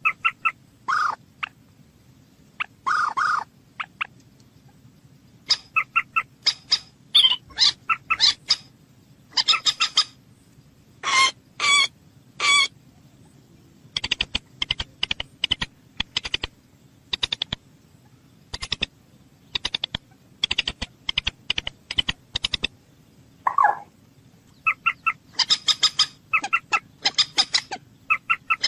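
Common moorhen calling: a series of short, harsh clucking and squawking notes, some in quick runs, with a fast train of clicking ticks through the middle, over a faint low hum.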